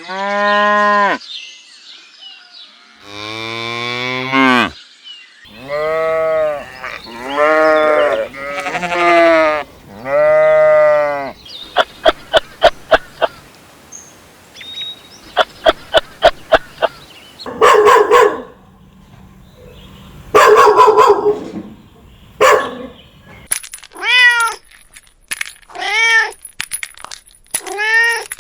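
A sequence of different farm animal calls, one after another: long bleating calls at first, then a stretch of rapid clicking, then harsher, noisier calls, and from near the end a cat meowing over and over in short, rising-and-falling meows.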